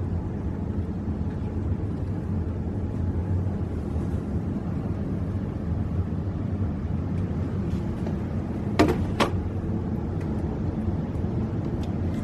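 Steady low rumble, with two sharp clacks about half a second apart around three-quarters of the way in and a few faint ticks, as the hard plastic RC car body and chassis are handled.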